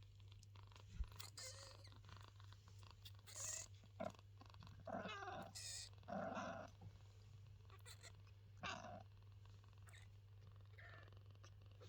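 Mother cat purring quietly as she licks and washes her kittens, with soft licking and rustling noises now and then.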